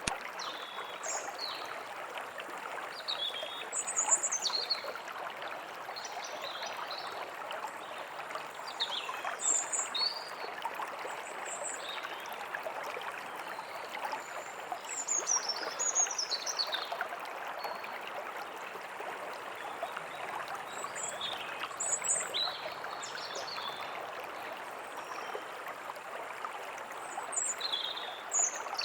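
A stream flowing steadily, with songbirds giving short chirps and quick up- and down-sliding high calls off and on over it.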